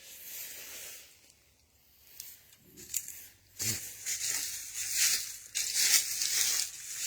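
Footsteps crunching and rustling over dry ground cover. They are faint at first, then louder and continuous from about three and a half seconds in.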